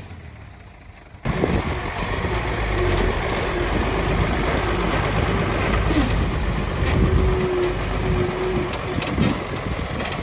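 Heavy diesel construction machinery running steadily, starting suddenly just over a second in, with a short hiss about six seconds in.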